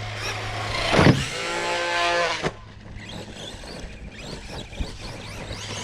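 Electric motor of a radio-controlled car whining under throttle for about two and a half seconds, with a loud knock about a second in, then cutting off abruptly.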